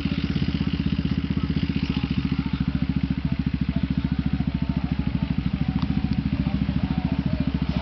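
Vehicle engine idling with a steady, rapid, even pulse of about ten beats a second.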